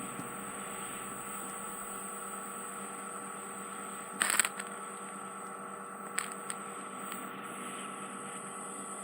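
Ear microsuction unit running with a steady high whistling hiss, with a short crackling burst about four seconds in and a couple of small clicks later, as wax and dead skin are drawn into the suction tip.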